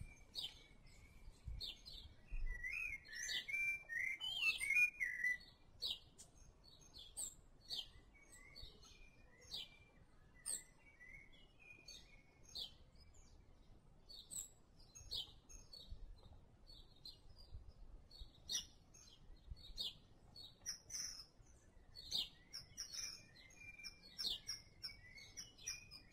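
Birds chirping: short high calls repeated about once a second, with a louder warbling run of notes from about two and a half to five seconds in and more warbling near the end.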